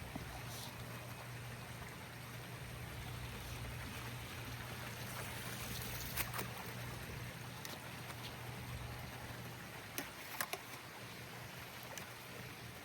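Swimming pool water running steadily, with a low hum underneath. A few sharp clicks or knocks come about halfway through and twice more later on.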